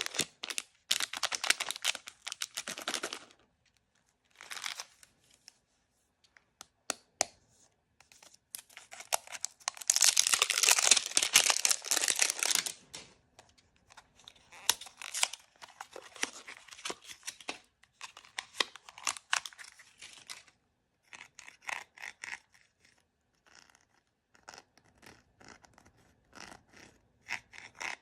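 Blind-bag packaging being torn open and crinkled by hand: bursts of rustling and crackling with short pauses between them. The longest and loudest tear comes about nine to thirteen seconds in.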